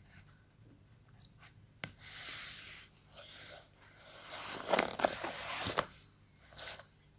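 Soft rustling and scraping of paper being handled, in several short stretches, with one sharp click a little before two seconds in.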